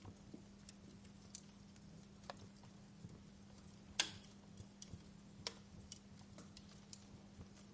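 Fire crackling: scattered sharp pops and ticks, the loudest about four seconds in, over a faint steady low hum.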